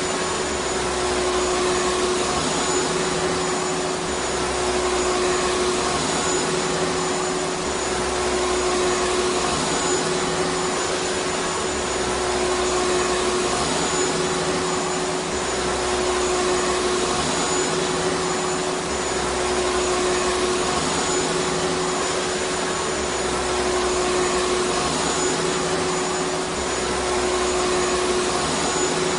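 Vacuum cleaner running steadily: an even rushing hiss of air with a constant hum and a faint high whine from the motor.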